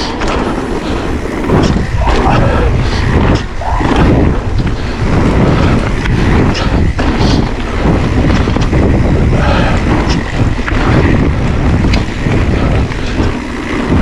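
Wind buffeting the action-camera microphone while an electric mountain bike is ridden over a woodland trail, with tyre rumble and frequent short knocks and rattles from the bike.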